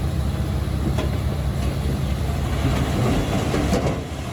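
Komatsu D21P bulldozer's diesel engine running steadily under load, with clanking and clatter from its moving steel tracks. There is a sharp click about a second in, and the clatter grows busier in the second half.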